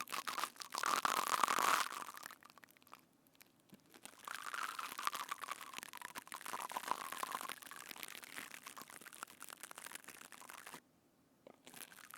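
Floam squeezed and squished right against a binaural microphone: a dense crackling and crunching, stopping briefly twice, about three seconds in and near the end.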